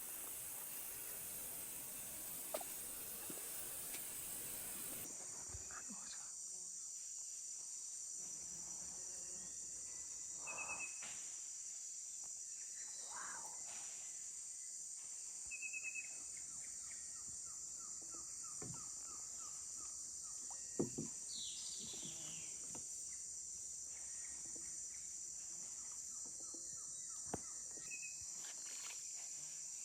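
Amazon rainforest insect chorus, a steady high-pitched drone, with scattered bird calls and chirps over it. The first five seconds hold a steady hiss that cuts off suddenly.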